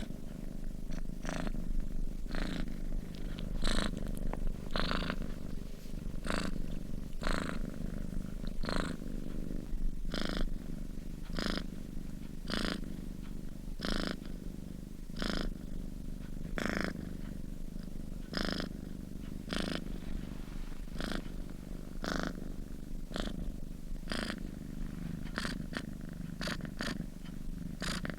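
Domestic cat purring steadily while asleep. The purr pulses with its breathing, roughly once a second.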